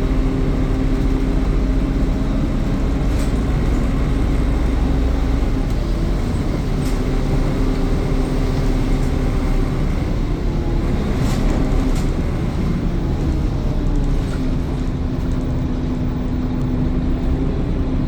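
Interior sound of a Scania N230UD OmniCity double-decker bus under way: its five-cylinder diesel drones with a steady whine from the cooling fans on top, and scattered rattling clicks. The whine's pitch shifts about ten seconds in and settles again a few seconds later.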